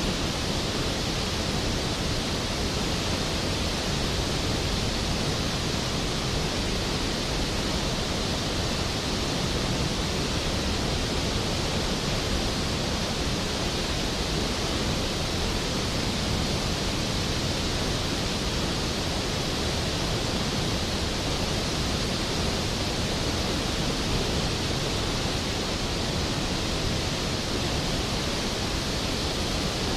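Skógafoss waterfall: a large volume of water falling and crashing into the plunge pool, a steady, dense rushing roar without any change.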